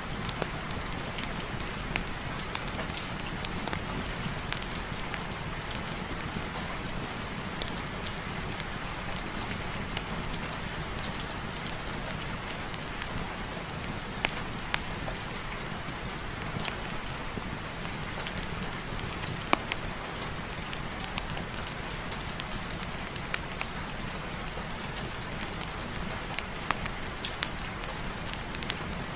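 Steady heavy rain falling, an even hiss with scattered sharp ticks and pops throughout.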